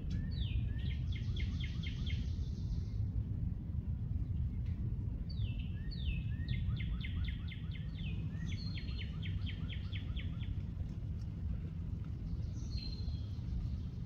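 A small songbird sings several times. Each song is a few quick downward-slurred notes followed by a fast run of evenly repeated notes. Under it runs a steady low rumble.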